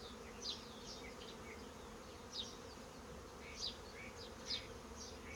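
Honey bees buzzing steadily around an opened hive, a low continuous hum. Short, high, falling chirps come about once a second over it.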